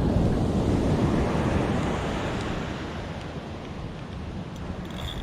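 Ocean surf washing on the beach with wind buffeting the microphone, loudest in the first couple of seconds and then easing off. A short high-pitched buzz comes in right at the end.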